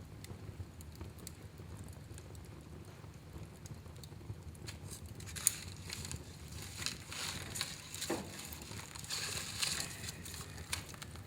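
Wood fire burning in a fireplace: a low steady rumble with scattered crackles. About halfway through it turns busier, with hissing and a run of crackles and a sharp pop, then settles again near the end.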